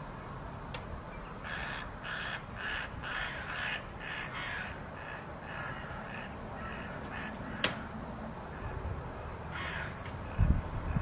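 A bird giving a series of harsh, crow-like caws, about two a second, then fainter repeated calls. There is a sharp click about two-thirds of the way through and low thumps near the end.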